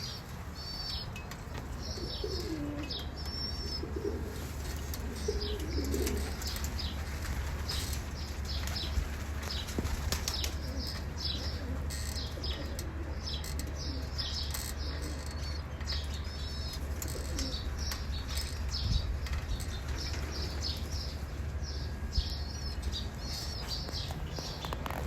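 Backyard birds calling: short, high chirps repeat over and over, with a few lower, wavering coo-like calls in the first several seconds. A steady low rumble runs underneath.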